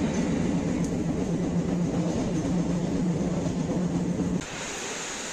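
Moving electric suburban train, heard from on board: steady rumble and rapid clatter of wheels on rails with a low hum. About four seconds in it drops abruptly to a quieter steady hiss.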